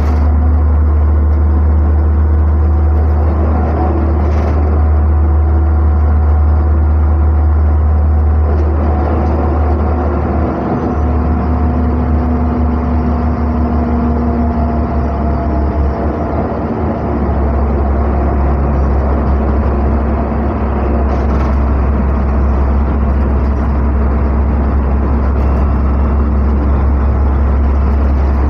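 A NefAZ-5299 city bus under way, heard from inside the cabin: a steady, loud engine and road rumble with a faint whine above it. The rumble eases for a few seconds around the middle.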